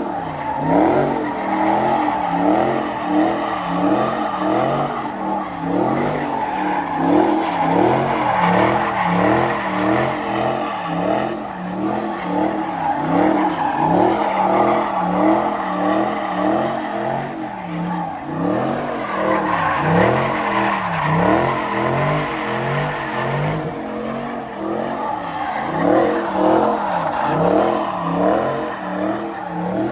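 A car engine revving up and down over and over while its tires squeal through a slide.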